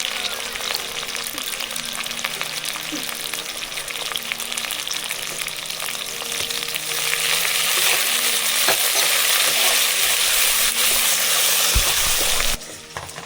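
Food sizzling as it fries in hot oil in a pan, with a few light clicks. The sizzle grows louder about halfway through and stops abruptly just before the end.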